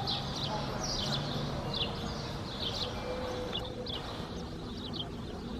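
Small birds chirping, short down-slurred chirps repeated a couple of times a second, over a steady low background noise.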